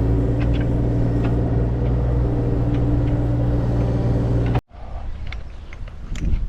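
An engine running steadily at a constant speed, stopping abruptly about four and a half seconds in; after that there are only scattered light clicks and knocks.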